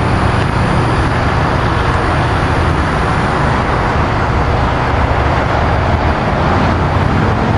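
Amtrak Keystone passenger train pulling out, pushed by an ACS-64 electric locomotive: a steady, loud rumble of wheels on rail with a constant hiss.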